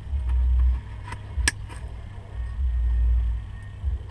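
A deep rumble that swells twice, with a few short sharp clicks in between.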